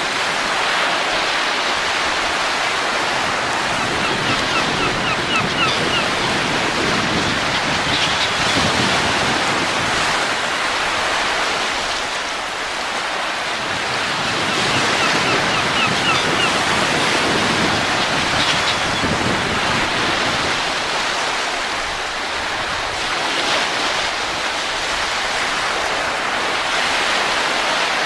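Steady wind noise, swelling and easing slowly, with a short run of faint high chirps twice.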